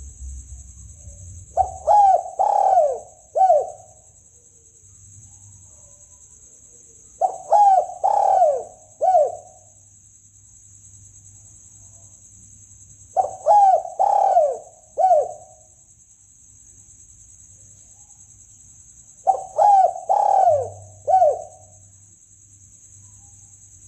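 Spotted dove cooing, the call used as a hunting lure: four phrases of about four rounded, falling notes each, repeated roughly every six seconds. A steady high-pitched hiss runs behind it.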